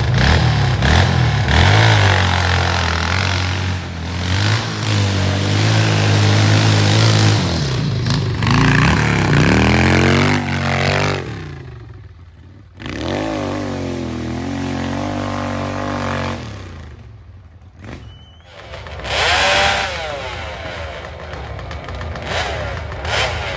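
Vintage motorcycle engines revving hard at full throttle, the pitch rising and falling as the throttle comes on and off. The engine sound falls away about halfway through and comes back abruptly. It dips again about three quarters of the way in, then picks up once more.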